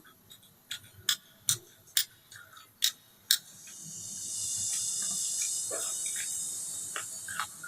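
Eating sounds: a few sharp, crisp clicks of chewing in the first half, then a steady high hiss lasting about four seconds.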